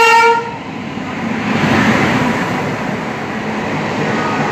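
Indian Railways WAP-7 electric locomotive's horn, a blast that cuts off about half a second in, followed by the steady noise of a passenger train running past, swelling about two seconds in.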